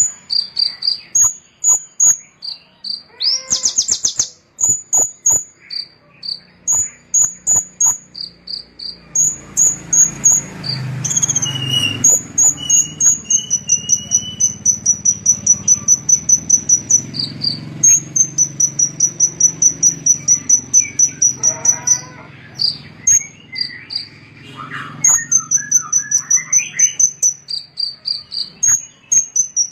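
A small songbird singing in a rapid run of high-pitched chirps and long, fast trills of repeated notes, with a faint low hum in the background for part of the time.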